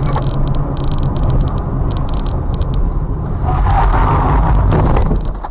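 Motor vehicle running with a steady low rumble of engine and road noise. It grows louder and harsher for a second or two past the midpoint, then drops off abruptly near the end.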